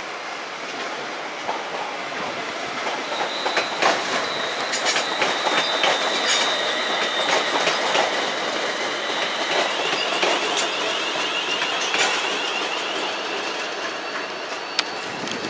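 London Midland Class 350 Desiro electric multiple unit running past on the tracks, its wheels clicking over rail joints. A high, steady squeal rises from about three seconds in and fades near twelve seconds.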